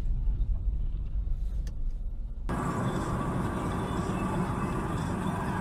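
Car driving on the road: a steady low rumble, changing abruptly about halfway through to a fuller, hissier road noise.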